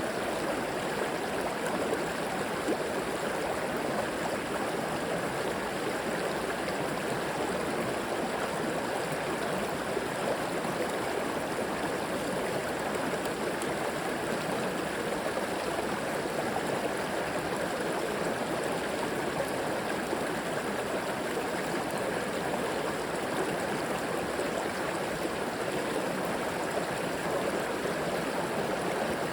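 River water flowing steadily over rocks, a continuous rushing with gurgling.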